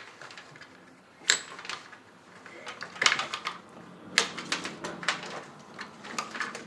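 Plastic cable connectors on a desktop computer's motherboard clicking and rattling in several short runs as the SATA and front-panel cables are pulled off and handled.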